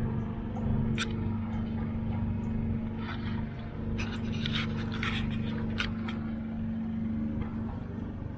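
Motorboat engine running steadily under way, a constant low drone. Several short scrapes and knocks come in a cluster in the middle.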